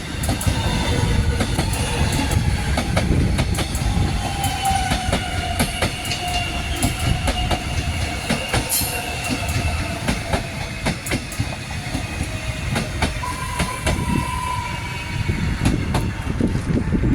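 Electric suburban train running along the track: a steady rumble with many sharp clicks of wheels over rail joints, and a whine that slowly falls in pitch. A second, higher steady whine comes in about thirteen seconds in.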